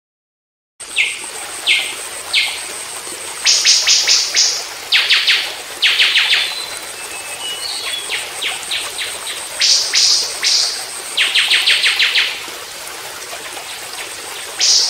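A songbird singing in a series of short, rapid, buzzy trills with brief pauses between them, starting about a second in, over a steady high-pitched whine.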